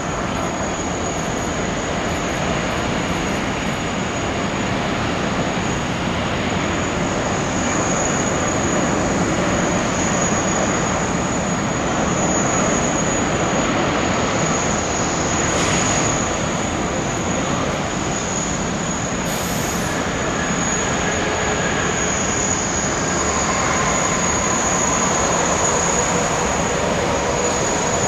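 Airbus A350's Rolls-Royce Trent XWB jet engines on landing: a steady, loud roar with a constant high-pitched whine over it.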